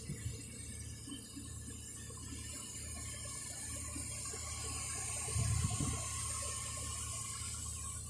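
Nissan Skyline R33's RB20E 2.0-litre straight-six idling steadily after a cold start, with a steady high hiss over it and a low bump about five seconds in.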